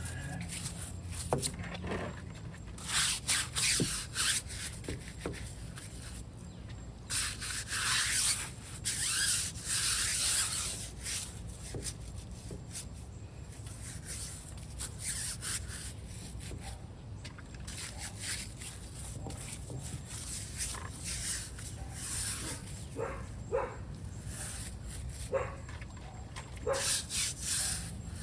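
Cloth rubbing and wiping across a car's body in repeated, uneven swishing strokes, with several louder bursts of rubbing.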